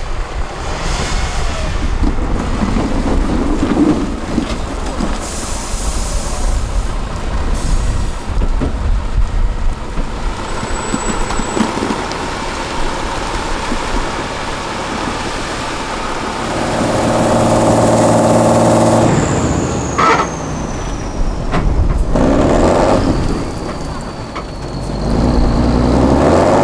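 Tatra 8x8 truck's turbo diesel engine working under load off-road, revving hard and steady for a couple of seconds about two-thirds of the way in, then easing off with a falling high whine.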